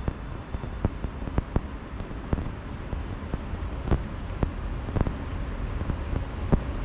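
Freight train on the line: a steady low rumble with sharp clanks and knocks at irregular intervals.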